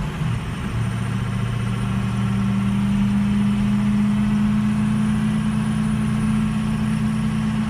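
Truck's eight-cylinder diesel engine idling with a steady low drone that settles to a slightly different pitch in the first second and grows a little louder. Cylinders 2 and 7 are showing weak in the contribution balance, a misfire on those cylinders.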